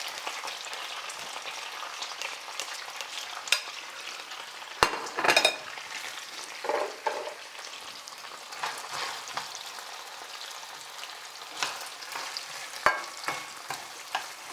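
Onions sizzling as they fry in a pan, a steady hiss, while they are stirred, with a few sharp knocks and short scrapes of the utensil against the pan.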